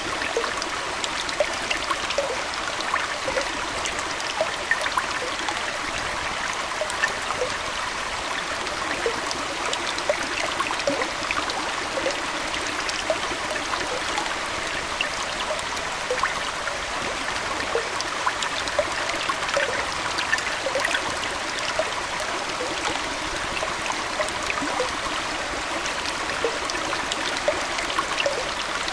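Aquarium water flowing and trickling steadily, with many small splashing and gurgling blips scattered through it.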